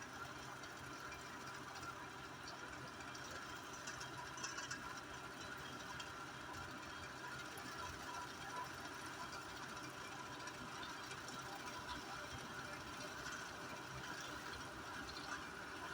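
An engine running steadily while it works a potato digger.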